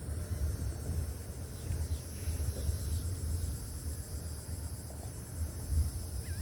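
Steady high-pitched insect trilling with a fast pulse, over an uneven low rumble.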